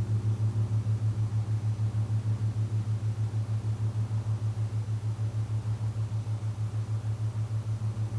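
Gong sounding a low, steady drone with an even pulsing, about four or five pulses a second.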